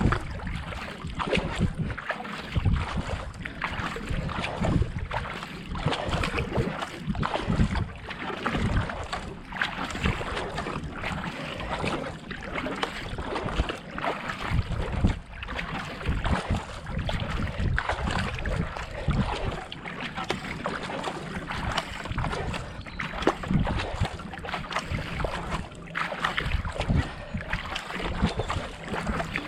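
Kayak paddle blades catching and pulling through the water in a steady stroke rhythm, with water rushing along the hull and wind on the microphone.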